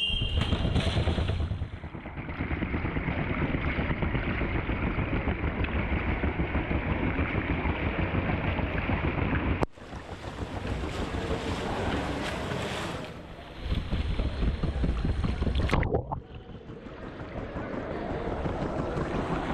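Pool water splashing and sloshing against a swim camera held at the waterline as a swimmer passes, with a heavy low rumble on the microphone. The sound breaks off sharply about ten seconds in and again near sixteen seconds, then picks up again.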